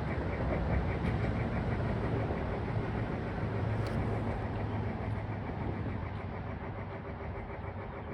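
Model train running along its track, a steady low motor hum with a faint, even clicking from the wheels, easing off slightly near the end.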